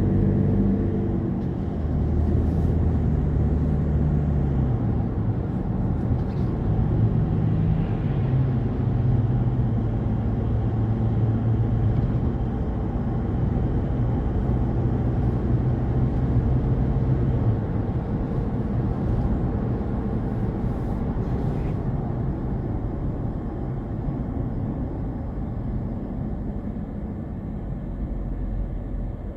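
Car on the move: a steady low rumble of engine and road noise, with low engine tones that shift in pitch a few times and then fade into the rumble.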